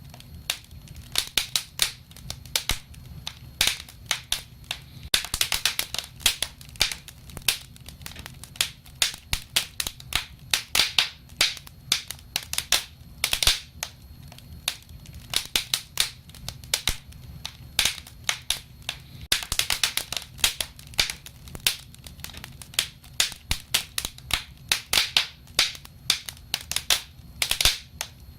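Burning wood fire crackling: irregular sharp pops and snaps, some coming in quick clusters, over a low steady rumble.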